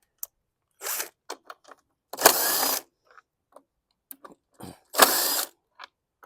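Ratchet wrench clicking in short bursts, about four spread over a few seconds, as the 8 mm bolts holding a lawn mower engine's recoil starter are backed out.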